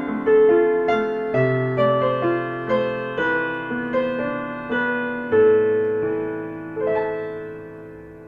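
Soft, slow piano music: single notes and chords struck about every half second and left to ring, ending on a held chord that fades out.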